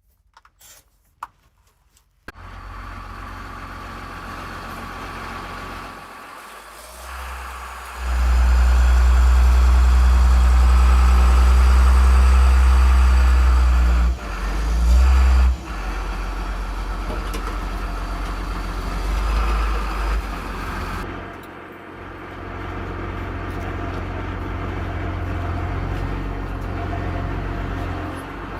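A vehicle engine starts about two seconds in and runs steadily with a deep drone. It gets much louder for several seconds in the middle, surges briefly, then settles back to a steady run.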